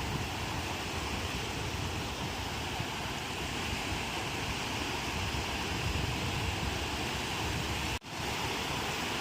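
Ocean surf: waves washing and breaking in a steady, unbroken rush with a low rumble underneath. The sound drops out abruptly for a split second about eight seconds in, then comes straight back.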